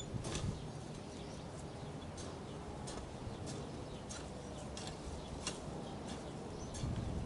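Garden hoe chopping into the soil in short, irregular strokes, about one or two a second. Wind rumbles low on the microphone underneath.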